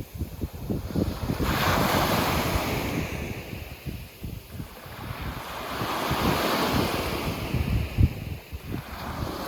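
Sea waves breaking and washing up a sandy beach, one surge swelling about a second and a half in and another a few seconds later, with wind buffeting the microphone in low rumbles throughout.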